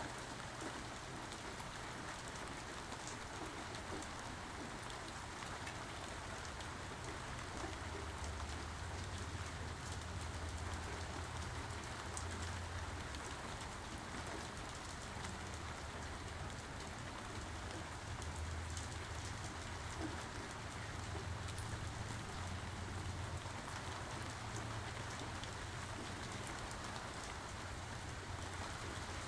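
Steady rain falling, an even hiss of drops on surfaces, with a low rumble swelling and easing through the middle.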